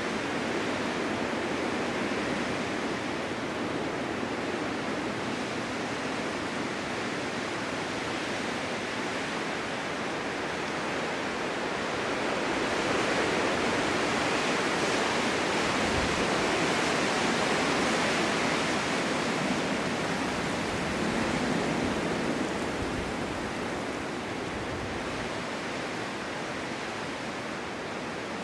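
Strong winter wind blowing steadily in a snowstorm, rising in a long gust about halfway through and easing off near the end.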